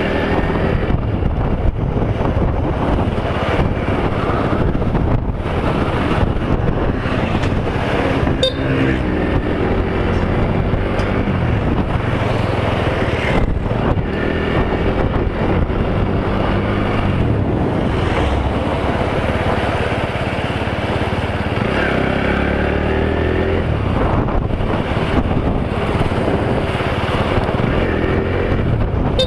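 Motorcycle engine running while riding, its pitch rising and falling in places with the throttle, with wind rushing over the microphone.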